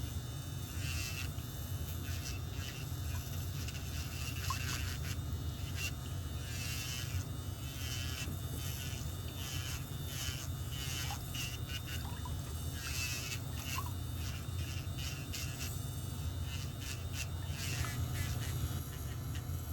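Pedicure tools working on a fungus-thickened toenail: irregular scraping or filing strokes over a steady low hum.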